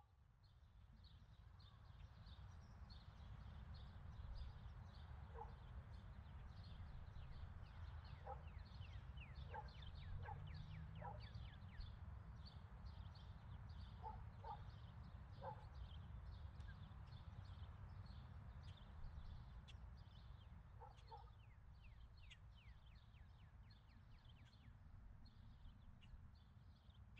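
Faint outdoor ambience: many small birds chirping, with quick falling notes and a few short paired calls, over a low steady rumble.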